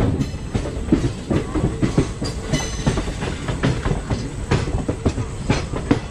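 Express train coaches rolling along the track, the wheels clattering irregularly over rail joints over a steady low rumble.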